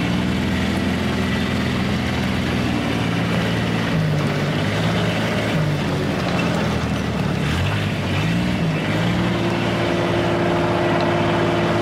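Small 4x4 farm utility vehicle's engine running while being driven, with wind and motion noise. Its engine speed dips and rises in the middle, then holds steady at a higher pitch from about nine seconds in.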